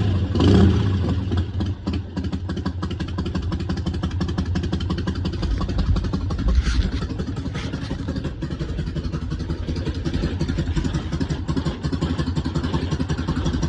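1988 Harley-Davidson Softail's Evolution V-twin running at idle with an even, pulsing beat, blipped briefly about half a second in and again about six and a half seconds in.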